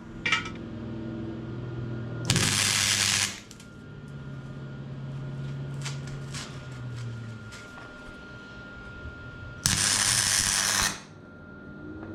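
Gasless flux-core MIG welder laying two short welds, about a second each, with a loud crackling sizzle. A low steady hum sounds in between.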